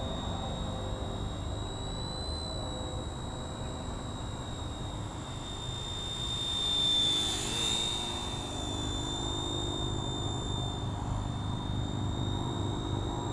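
RCERA Bell 206 Jet Ranger RC helicopter in flight, its small electric motor and rotor giving a steady high whine. The whine swells louder about halfway through, then eases back.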